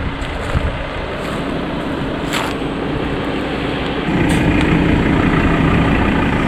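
Four-wheel-drive vehicle driving, its engine running under steady tyre and road noise. About four seconds in the engine note rises and gets louder, as if under more load. A short sharp click comes near the middle.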